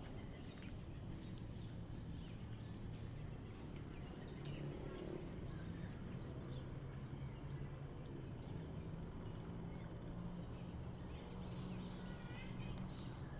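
Many small birds chirping in short, scattered calls, over a steady low background rumble.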